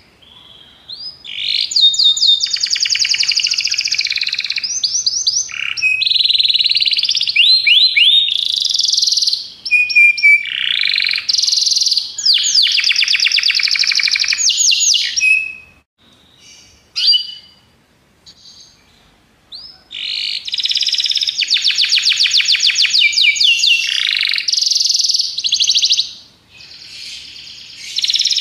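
Domestic canary singing long phrases of rapid trills and rolls, with short gliding notes between them and a break of a few seconds of scattered notes in the middle.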